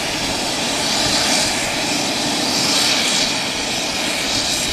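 Three-engine business jet's engines running steadily on the ground: a loud, even jet hiss with a high whine.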